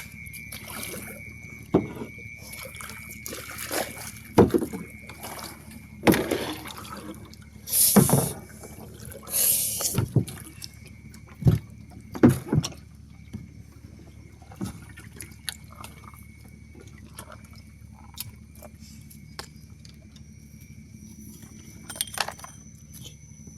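Canoe paddling: irregular paddle strokes splashing in the water, with sharp knocks of the paddle against the canoe's hull. The strokes come thick through the first dozen seconds, then the canoe mostly drifts with only small clicks and a few knocks near the end.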